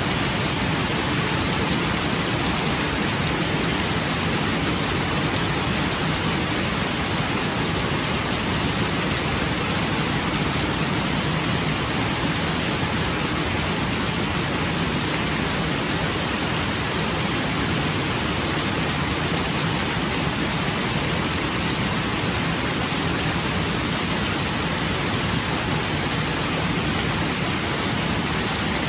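Steady rain falling, an even, unbroken hiss with no thunder or single drops standing out.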